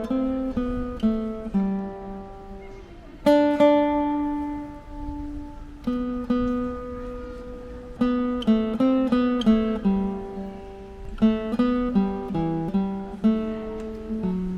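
Background music: a Christmas carol played on solo acoustic guitar, a slow melody of single plucked notes and chords that ring out and fade.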